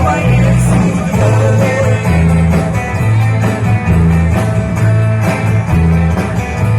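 Live band playing a rock-style song: guitar over a moving bass line with a steady beat.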